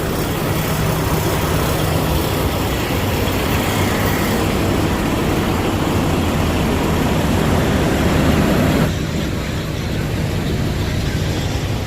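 Idling semi-truck engine, a steady low drone under a broad rushing noise; about nine seconds in the upper hiss drops away.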